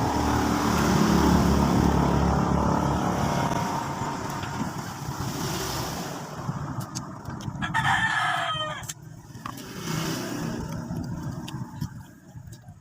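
A vehicle passes and fades away, then a rooster crows once about eight seconds in. A few light clicks come before and after the crow.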